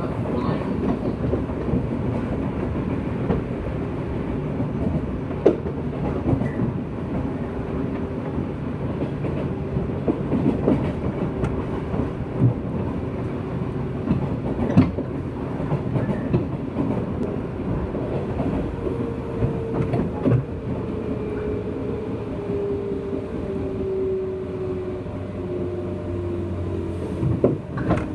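JR West 201 series electric train (motor car Moha 200) running: a steady rumble with the wheels clicking over rail joints every few seconds. In the second half the traction motor whine falls slowly in pitch as the train slows.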